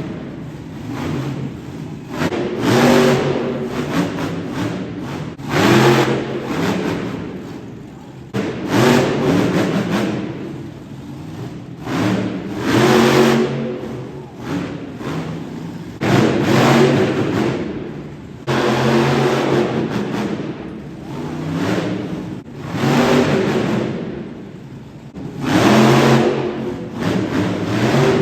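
Monster truck engine revving hard in repeated bursts of throttle, about every three seconds, the pitch climbing and falling back with each burst.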